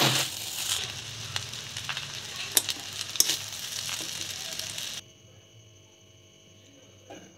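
Vegetable fried rice sizzling in a hot metal pan as a spatula stirs and scoops it, with a few sharp spatula clicks against the pan. The sizzling cuts off abruptly about five seconds in, leaving only a faint steady hum.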